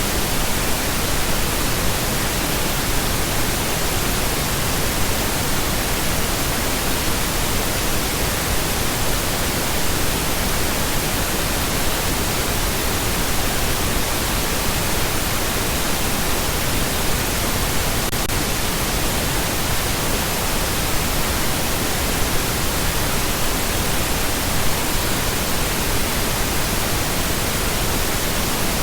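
Steady pink noise: an even, unchanging hiss spread across all pitches, with no tone or rhythm.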